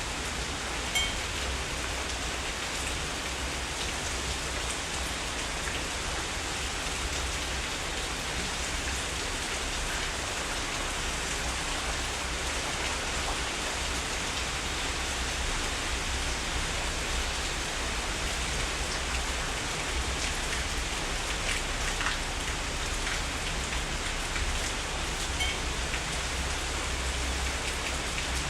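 Heavy rain falling steadily, with a few sharper single drop hits standing out, one of them about a second in.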